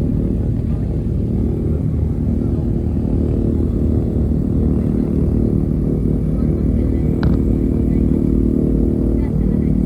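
Piston aircraft engines running steadily with a low, even rumble; a short click sounds about seven seconds in.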